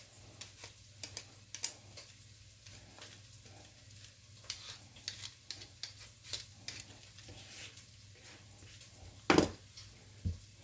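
Vegetable peeler scraping the skin off sweet potatoes in short, irregular strokes, over a faint sizzle of pork sausage browning in the pot. A loud knock comes about nine seconds in, with a smaller one just after.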